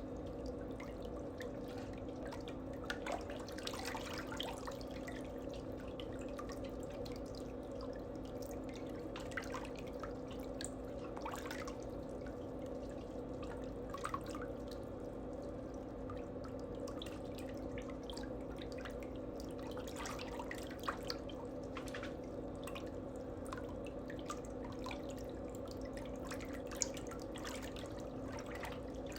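A steady low electrical hum with faint, scattered small clicks and taps.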